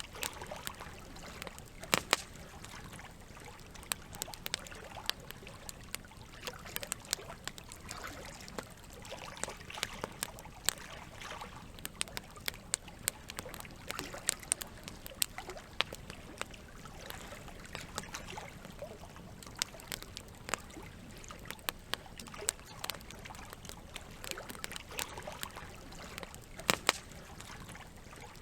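Campfire crackling, with frequent sharp pops and snaps, over a steady sound of flowing water. The loudest pops come about two seconds in and again near the end.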